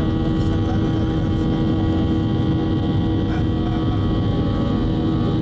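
Boeing 737 jet engines running with a steady low drone and an even, steady whine, unchanging throughout.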